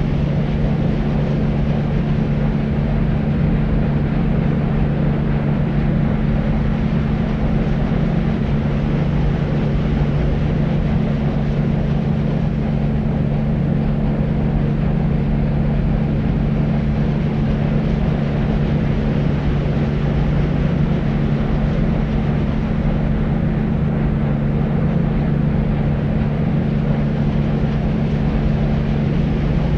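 Steady deep white noise: a continuous low rushing hiss with a constant low hum underneath, unchanging throughout.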